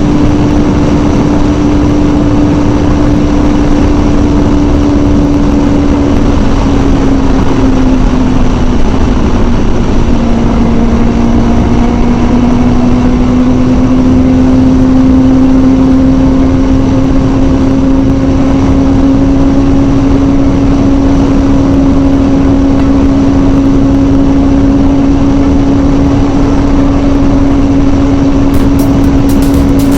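Kawasaki ZZR600's inline-four engine running at a steady cruising speed under heavy wind rush. Its note eases a little about seven seconds in, then slowly climbs back and holds steady.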